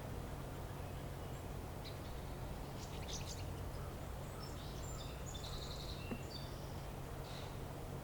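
Outdoor winter ambience: a steady low background rumble with several faint, short, high bird chirps and calls scattered through the middle.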